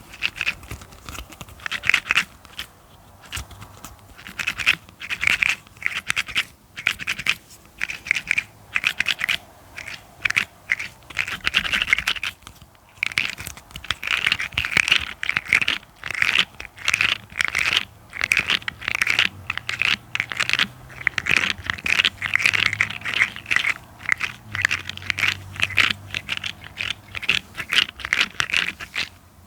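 Rapid scratching strokes on a surface, an ASMR scratching trigger, going in quick runs with a brief pause a little before halfway.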